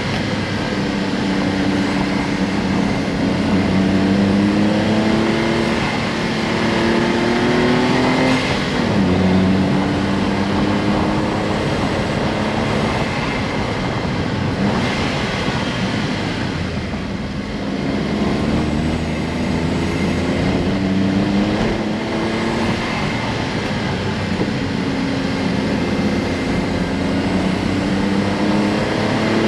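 Honda S660's small turbocharged three-cylinder engine under way, its note climbing in pitch several times and falling back between the climbs as the car accelerates and eases off, over steady road noise.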